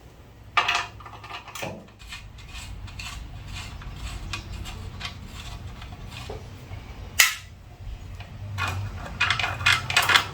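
Hand tools and small metal parts clinking and clattering during work on a generator engine, with a sharp metallic knock about half a second in, another about seven seconds in, and a run of quick rattling clicks near the end, over a low steady hum.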